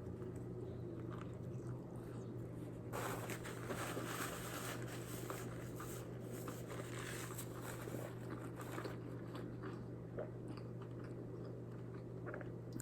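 A person chewing a mouthful of burger, with faint wet mouth sounds that are busiest from about three to nine seconds in. A steady low hum runs underneath.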